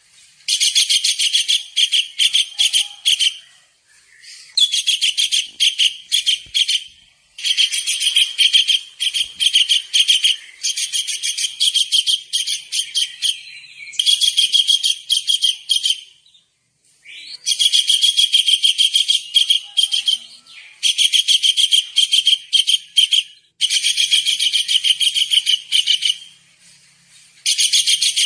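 Tengkek udang (kingfisher) calling in a high, rapid chattering trill, repeated in runs of two to three seconds with short breaks between them.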